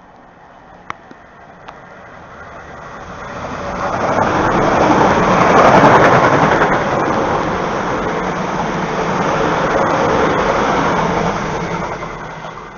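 Electric multiple-unit passenger train running through the station at speed without stopping. Its wheel-on-rail and traction noise swells to a loud rush that peaks about six seconds in, stays loud while the coaches pass, and fades as the train draws away near the end.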